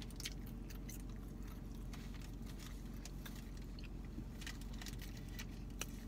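Close-up chewing of a chicken sandwich, with soft wet mouth clicks, over a steady low hum from the car.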